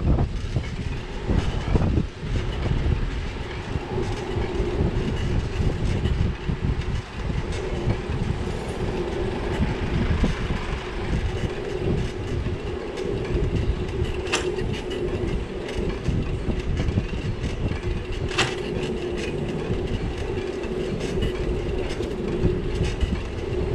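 Ride noise of a bicycle on city streets picked up by a camera on the bike: a continuous rattling rumble with a steady hum, broken by two sharp clicks a few seconds apart past the middle.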